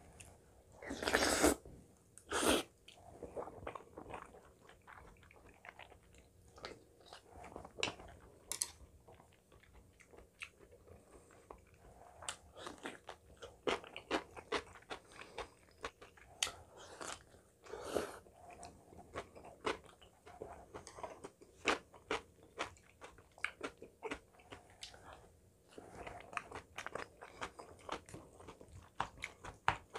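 Close-miked chewing of curry rice with Spam, potato and glass noodles: wet, irregular mouth clicks and smacks, with two louder bursts about one and two and a half seconds in.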